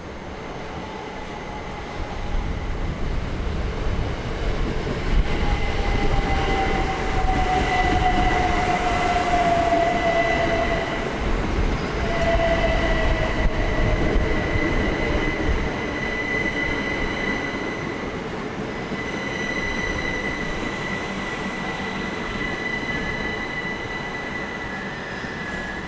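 Southeastern electric multiple unit arriving and slowing at the platform: a falling whine about 5 to 12 seconds in, over a high steady squeal, loudest in the middle and easing off toward the end.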